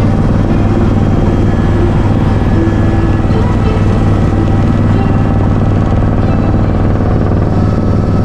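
Steady drone of a helicopter's engine and rotors in flight, heard from inside the cabin.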